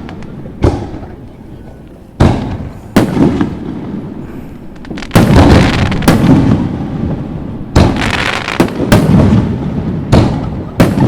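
Fireworks shells bursting one after another, about eight sharp bangs spread irregularly, each followed by a rumbling echo that dies away; the loudest comes about five seconds in.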